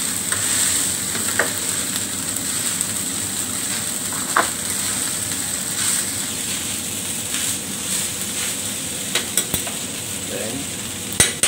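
Fried rice sizzling on a steel flat-top griddle as a spatula stirs and scrapes it, with a few sharp clicks of the spatula striking the plate, the loudest near the end.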